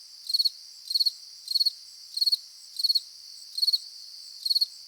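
Cricket chirping sound effect: a high, regular chirp, each a short trill, repeating about one and a half times a second over otherwise silent audio. This is the comic "crickets" silence gag dubbed in by the editor.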